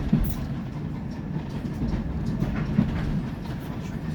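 Steam train carriage rolling along the track: a steady low rumble of wheels on rails, with a couple of sharp clicks.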